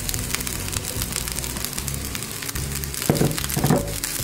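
Oil and fried spice powder sizzling and crackling in a non-stick pan under a heap of cooked rice, with a spatula pushing through the rice in two louder strokes near the end.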